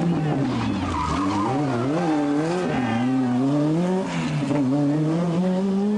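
Group B rally car engine revving hard, its pitch rising and falling repeatedly as the throttle is lifted and reapplied, then climbing steadily near the end.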